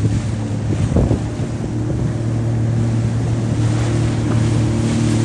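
A vehicle engine running steadily at an even speed, with wind buffeting the microphone.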